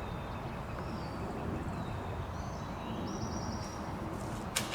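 Outdoor field ambience: a steady low rush of wind or open-air noise, with a songbird singing a short trilled phrase twice. A single sharp click comes near the end.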